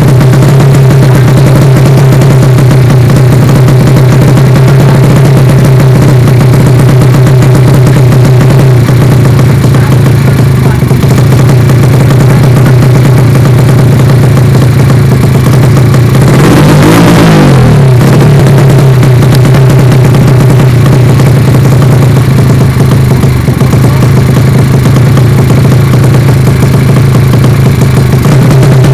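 Yamaha Vega motorcycle engine bored up to 185 cc in a 'sleep engine' build, idling loud and deep. A little past halfway, a single quick throttle blip rises and falls before it settles back to idle.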